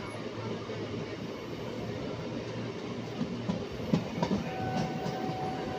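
Train running along the track, heard from on board: a steady rumble with a run of wheel clicks and knocks over the rail joints, and a thin steady tone that comes in about two-thirds of the way through.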